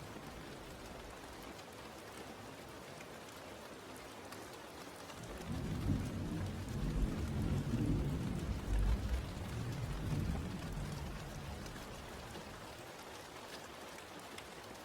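Steady rain, with a low roll of thunder rising about five seconds in and rumbling on for several seconds before fading.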